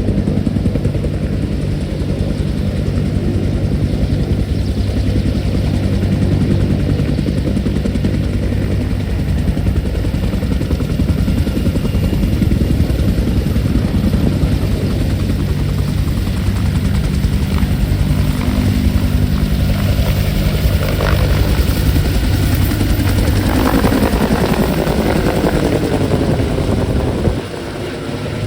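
Military helicopter taking off, its rotor pulsing rapidly over a steady engine drone. In the last several seconds the tones fall in pitch as it flies past and away, and the sound drops off suddenly just before the end.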